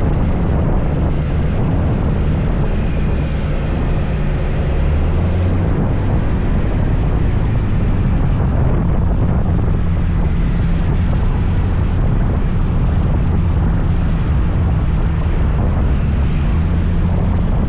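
Riding a motor scooter: a steady, loud low rumble of wind on the microphone mixed with the scooter's engine drone and tyre noise on the road.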